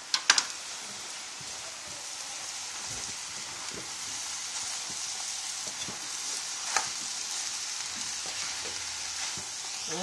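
Chicken and vegetables sizzling as they stir-fry in a skillet, with a spatula stirring and scraping through them. A few sharp knocks at the start and one more about two-thirds of the way through.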